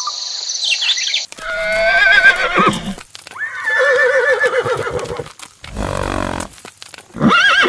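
Horse whinnying: three quavering neighs, two long ones and a shorter one near the end, with a short breathy noise between them. A hiss with fast ticking fills about the first second.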